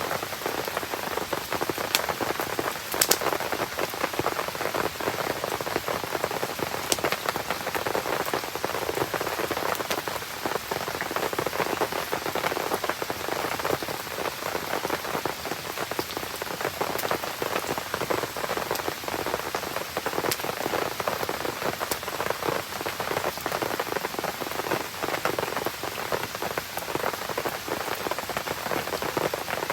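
Steady rain falling and pattering, with a few sharp pops of a campfire crackling scattered through it, the loudest about three seconds in.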